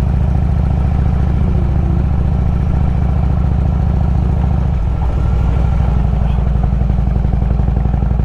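Harley-Davidson Road King's V-twin engine running steadily under way on a dirt road, its low note shifting slightly about five seconds in.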